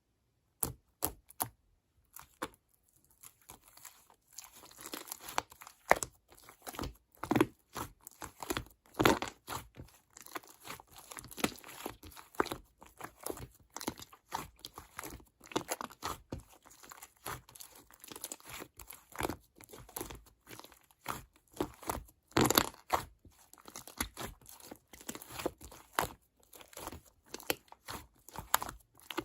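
Close crinkling, crackling and tearing sounds from handled material, a dense, irregular run of short rustles and crackles, loudest about twenty-two seconds in.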